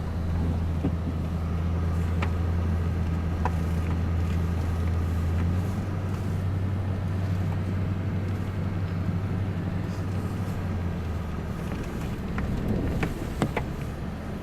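A motor vehicle's engine running with a steady low hum that shifts slightly partway through and fades near the end, with a few sharp clicks shortly before the end.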